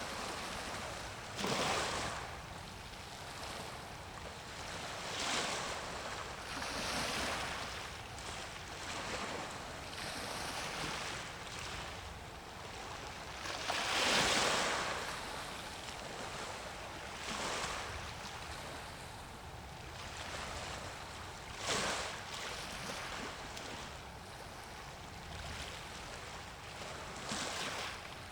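Small waves washing and splashing in, one every few seconds, the largest about halfway through, over a steady rush of water and wind.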